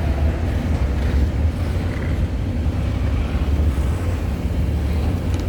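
Steady low rumble of a CN freight train rolling past, the cars behind its mid-train locomotive going by.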